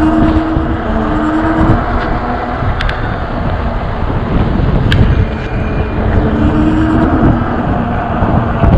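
Wind and road rumble from riding an electric bike on a city street, with motor traffic passing; a couple of sharp ticks along the way.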